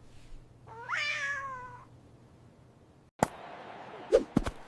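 A domestic cat meows once, a drawn-out call that rises and then falls, about a second long. Later comes a sudden sharp click, then a few sharp knocks near the end.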